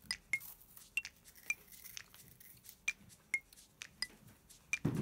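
Crisp cookie being chewed and broken into small pieces: small sharp crunches and clicks, a few a second, with a soft thump near the end.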